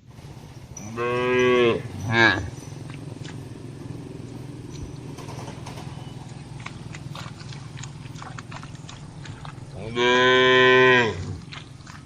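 Cattle mooing: a long moo about a second in, a short call just after it, and another long moo near the end.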